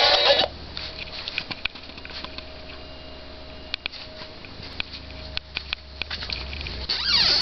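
Upstairs washing machine running, heard through the ceiling as a steady low hum, with light irregular rattling and ticking of the door and window frames as its vibration carries into the room below.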